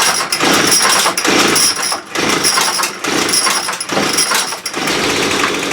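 Small two-stroke engine of a handheld saw or string trimmer running loud and revving in repeated surges about every 0.7 s, then settling to a steadier idle near the end. Its carburettor idle is still being adjusted and not yet set right.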